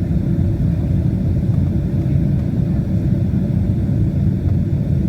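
Steady low rumble of a Boeing 767-300ER's engines and airflow, heard from inside the cabin.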